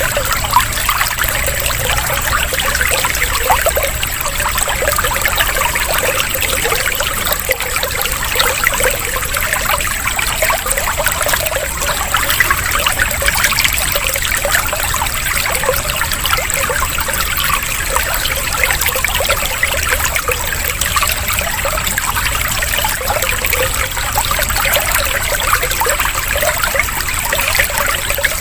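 Water trickling and splashing steadily, like a small stream or fountain, used as a water-sound therapy break.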